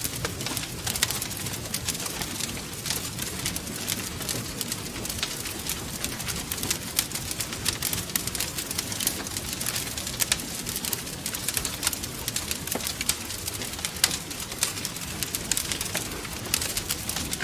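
Wood fire crackling steadily: many sharp pops and snaps over a low, fluttering rumble of burning.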